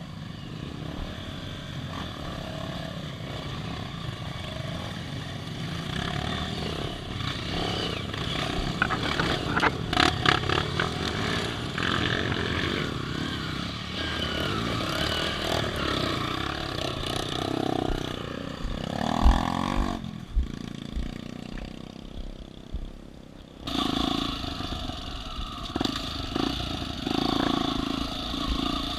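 Off-road vehicle engine running outdoors, with some clattering and a few low thumps.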